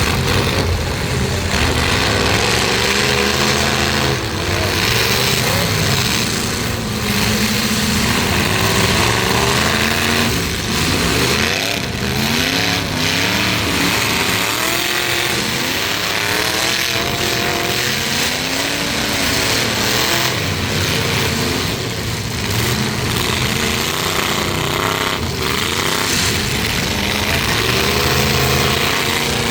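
Several big truck engines revving up and down over and over, as in a demolition derby, with now and then a sharp bang of a collision.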